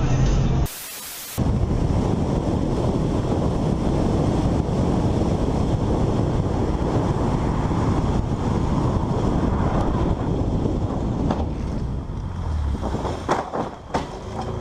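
Loud, steady rushing rumble of wind buffeting a dashcam microphone over road noise, with a few sharp knocks near the end.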